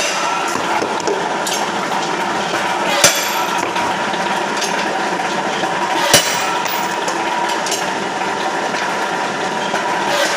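Steady machine running, with two sharp metallic clanks about three seconds apart.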